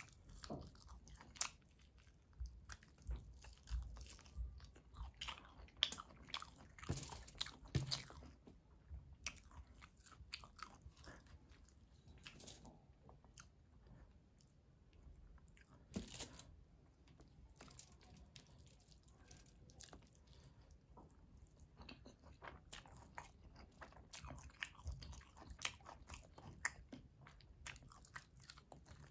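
Close-up chewing and biting of hand-fed mouthfuls of mutton biryani: irregular wet smacks and crunches, busiest in the first third, with a quieter stretch in the middle.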